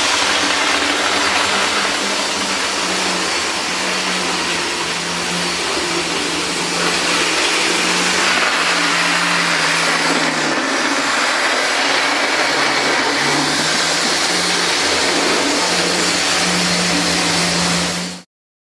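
Diesel locomotive engine running steadily, its low note shifting a little in pitch, with a lot of mechanical noise. The sound starts and stops abruptly.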